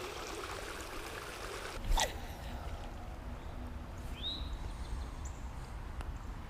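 Small current of pond water trickling steadily, with a brief knock about two seconds in and a short bird call about four seconds in.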